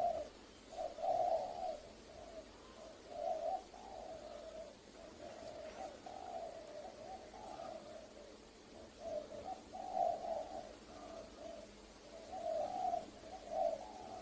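Spotted dove (tekukur) cooing: phrase after phrase of low, soft coos, repeated through the whole stretch.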